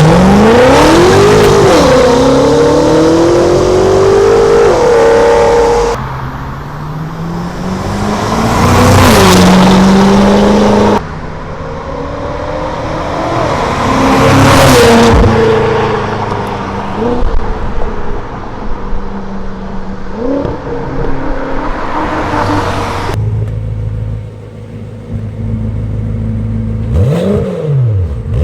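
BMW F10 M5's twin-turbo V8 through an Armytrix valved exhaust, accelerating hard in several cut-together runs, its pitch climbing and then dropping at each gear change. Near the end come a few quick throttle blips.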